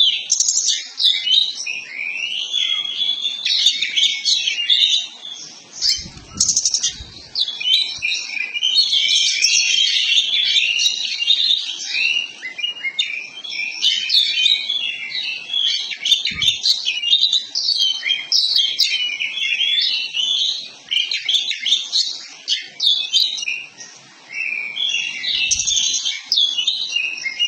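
Oriental magpie-robin (kacer poci) singing a loud, rapid, almost unbroken stream of varied whistles and chattering notes. This is the nonstop 'gacor' song of a bird in full voice.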